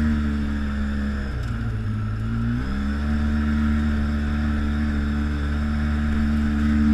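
ATV engine running on the trail, easing off for about a second and a half near the start, then picking back up and holding a steady speed.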